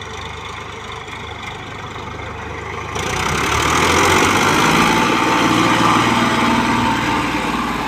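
Tractor's diesel engine running steadily, then about three seconds in growing louder and rougher as it is revved up, staying at the higher pitch of running.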